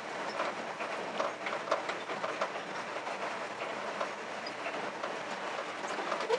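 1964 Ford F100 pickup driving slowly in second gear: a steady rumble with many irregular clanks and rattles.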